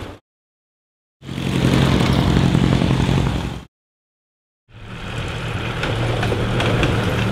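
Ford Model T speedster's four-cylinder engine running at a steady pitch as the car drives along. It is heard in two short stretches with dead silence between them: one starting about a second in and lasting a couple of seconds, the other fading in past the middle.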